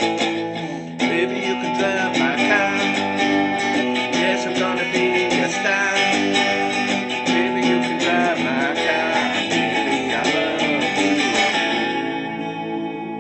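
Guitar music, strummed and plucked, with notes that bend. Near the end it thins out and the last chords ring out as it fades.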